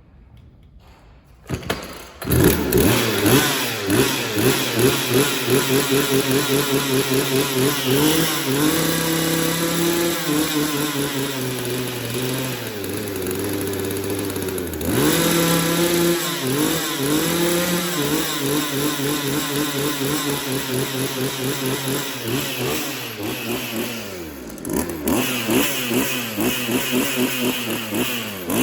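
Small two-stroke Poulan Pro chainsaw starting about two seconds in, then running and being revved up twice and let fall back to idle. The engine runs a little unevenly; the owner says the carburettor needs tuning.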